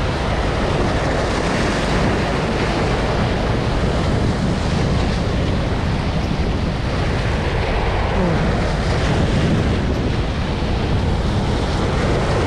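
Strong wind buffeting the microphone over surf breaking on the shore: a steady, loud rushing noise.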